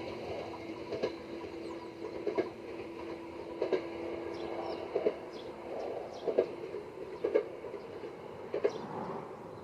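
Jōmō Electric Railway 700 series train running on jointed track, its wheels clacking over the rail joints in pairs about every 1.3 seconds. A steady hum underneath stops about halfway through.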